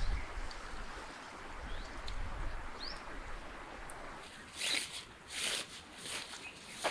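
A few short rising bird chirps over the steady rush of river water, then, from about two-thirds through, irregular crunching footsteps on the stony river bed.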